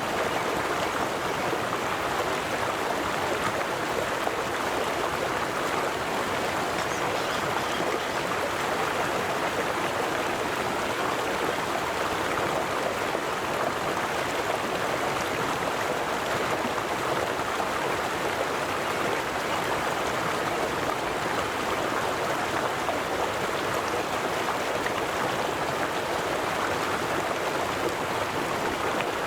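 River water flowing over rocks: a steady rushing and babbling that stays even throughout.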